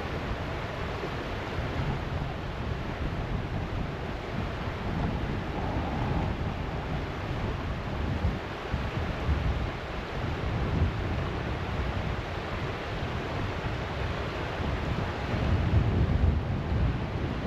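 Gusty wind buffeting the microphone over a steady rushing hiss, the low rumbles swelling and fading and strongest near the end.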